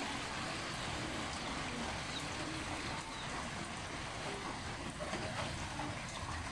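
Steady rain falling on dense broad-leaved tropical foliage, an even wash of patter with no let-up.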